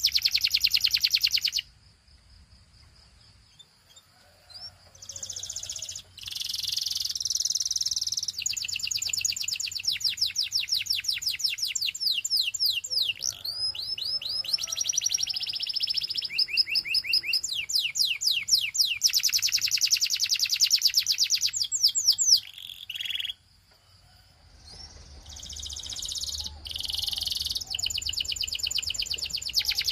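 Canary singing long phrases of fast rolling trills and quick rising and falling notes, each phrase a rapid string of repeated notes. It pauses briefly twice, once about two seconds in and once near the end.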